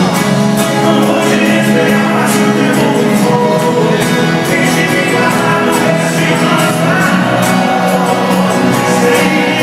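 Live sertanejo band playing with sung vocals: steady, loud music with regular percussion strokes throughout.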